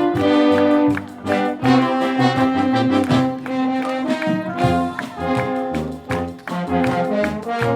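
Wind orchestra playing, with the brass section prominent: a rhythmic passage of short, punctuated chords.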